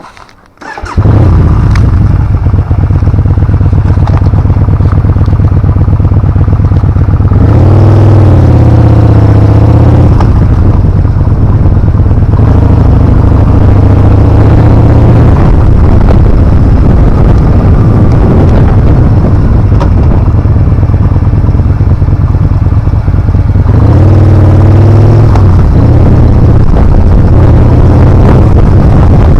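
Yamaha Bolt R-spec's air-cooled V-twin engine running under way, loud from about a second in, with the revs swinging up and down twice.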